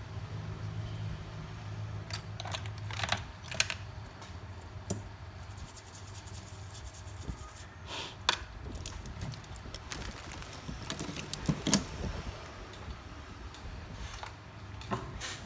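Irregular small clicks and taps of hand tools on a repair bench, with a few sharper knocks, over a steady low hum that is strongest in the first few seconds.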